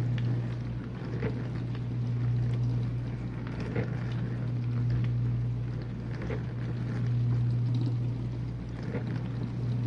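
Whirlpool dishwasher running its main wash: the wash pump's steady low hum under the swish of water spraying and sloshing inside the tub, swelling and easing slowly.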